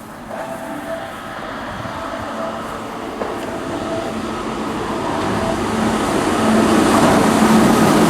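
Keihan 2600 series electric train approaching at speed to pass through the station, its running noise growing steadily louder.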